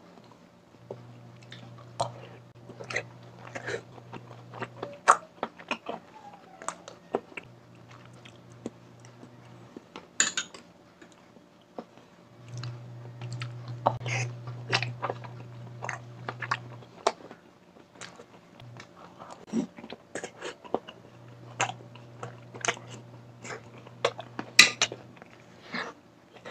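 Close-up mouth sounds of a person eating balut (boiled fertilised duck egg): chewing with many sharp clicks throughout. A low steady hum comes and goes several times.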